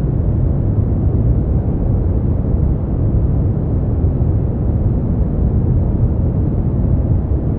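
Steady, generated white-noise track: an unbroken, even hiss weighted heavily toward the low end, deep rather than bright, with no changes or events.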